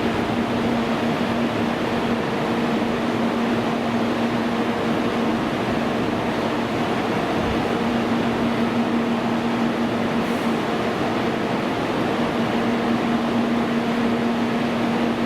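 Steady hum and hiss of a Shinkansen train standing at the platform, its air-conditioning and cooling equipment running, with a constant low tone that fades in and out.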